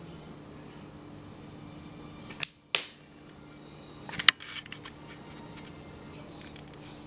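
Small plastic Kinder Surprise jumping-squirrel toy being launched and landing: a couple of sharp plastic clicks about two and a half seconds in, then another loud click with a short clatter of smaller ticks about a second and a half later, over a steady low hum.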